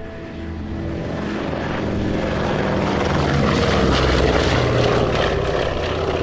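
Propeller aircraft passing overhead: its engine drone swells steadily to a peak about four seconds in, then begins to fade.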